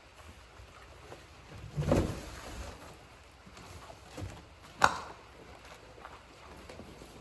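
A dull low thud about two seconds in and a sharp knock near five seconds, with a few fainter knocks between: handling noises.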